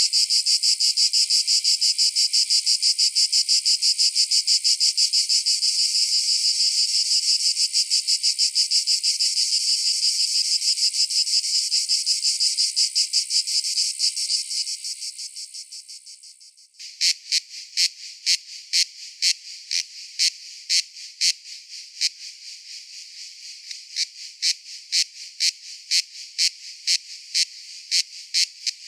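Cicadas buzzing: a loud, finely pulsing high buzz that fades away over a few seconds past the middle, then cuts suddenly to a quieter buzz carrying sharp clicking pulses about twice a second.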